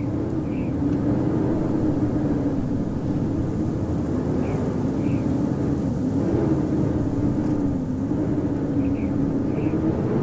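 Howling blizzard wind: a steady rushing noise with a moaning howl that slowly rises and falls in pitch. A few faint, short high chirps come in pairs now and then.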